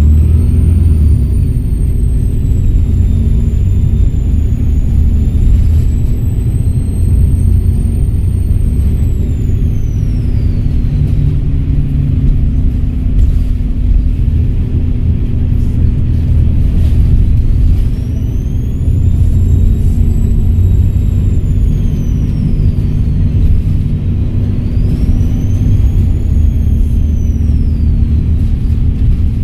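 Volvo B7RLE bus's turbodiesel engine running under a steady low rumble, its turbocharger whistling: a high tone rises as it spools up, holds, then falls away. This happens three times: a long one near the start, another about 18 seconds in, and a shorter one near the end.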